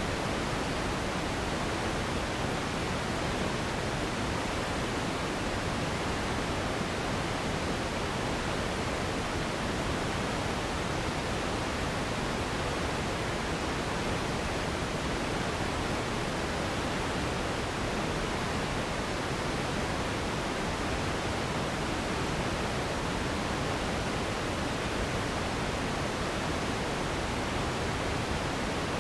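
Steady pink noise: an even, unbroken hiss, fuller in the low and middle range than in the highs, with no rhythm or change.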